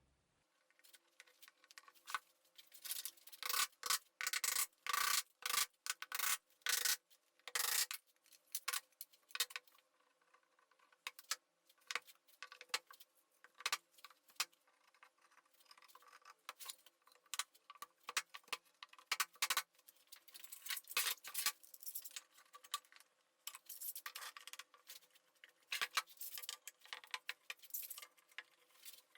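Quick, irregular rubbing and scraping strokes as 18 mm plywood parts are glued and clamped together.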